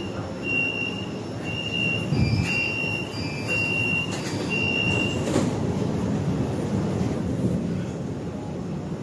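Metro train interior: a steady high beep repeating roughly every half second for about five seconds, typical of the door-closing warning, ending with a knock as the doors shut, over the steady low rumble of the train.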